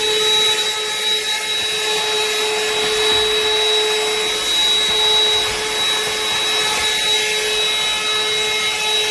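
BLACK+DECKER 20V Dustbuster cordless handheld vacuum (BDH2000L) running steadily: a pretty loud, even motor whine over rushing air.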